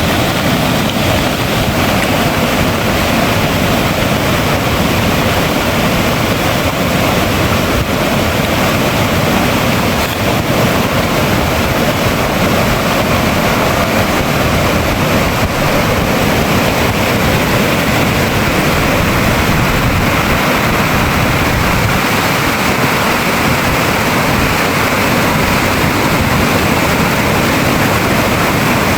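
Loud, steady rush of water, with no breaks or separate strikes.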